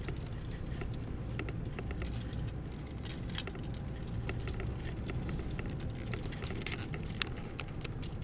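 Vehicle rolling slowly down a dirt drive: a steady low rumble of engine and tyres, with scattered sharp crackles and pops of the tyres on the dirt and stones.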